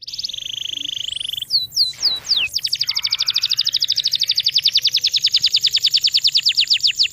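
A songbird singing: a high buzzy trill, then a few down-slurred whistles, then a long rapid run of down-slurred notes at about eleven a second, slowing into separate whistles near the end.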